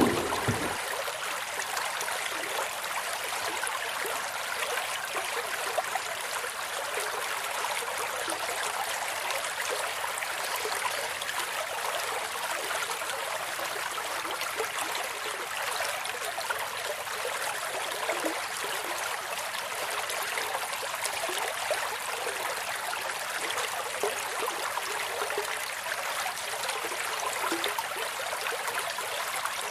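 A thin stream of water pouring from a miniature hand pump's plastic spout into a small basin of water: a steady splashing trickle.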